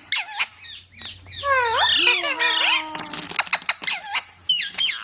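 Baby parrots squawking and calling: a quick run of sharp clicks and rising and falling squawks, busiest in the middle.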